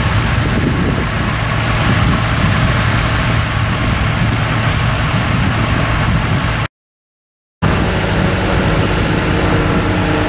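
Tractor engine running steadily. About seven seconds in the sound drops out completely for just under a second, then a steady engine hum returns.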